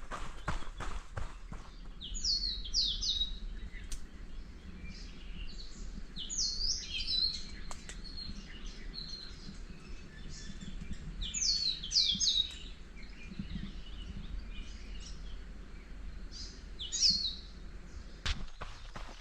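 Running footsteps on a forest trail stop about two seconds in. Songbirds then chirp in short, high, sweeping phrases from several directions, and the running footsteps start again near the end.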